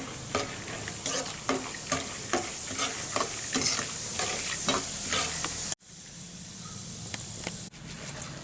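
Roasted gram (pottukadalai) frying in hot oil: a steady sizzle with repeated sharp clicks and scrapes of a ladle stirring in the pan. About two-thirds of the way through the sound cuts off suddenly, and a quieter sizzle without clicks follows.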